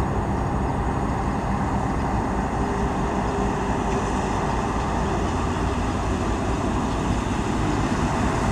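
Heavy road traffic: a large vehicle's engine running with steady tyre and road noise, growing slightly louder near the end.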